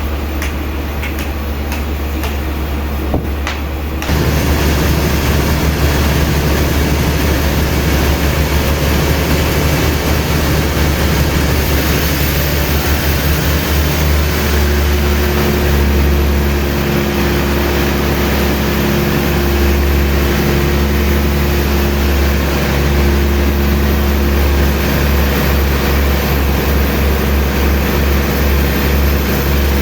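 Heavy machinery running steadily with a deep hum, stepping up in loudness about four seconds in; a steady tone joins about halfway through.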